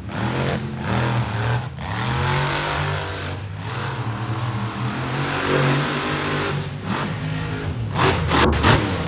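Monster truck engine revving hard. It drops off briefly a few times and its pitch rises and falls with the throttle.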